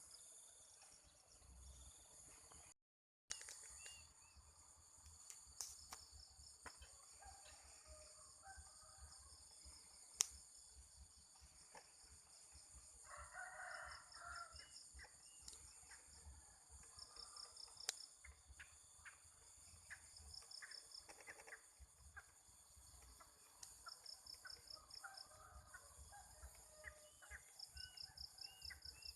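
Quiet rural ambience: insects trilling in steady high pulses, a rooster crowing in the distance about thirteen seconds in, and scattered faint bird calls, with one sharp click about ten seconds in.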